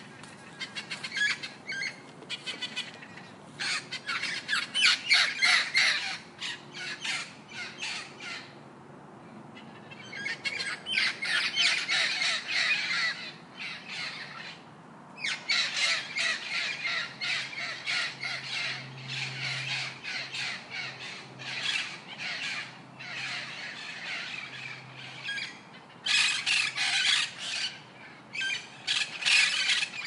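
A group of birds chattering and squawking: many short, rapid calls in bunches, broken by a couple of brief pauses.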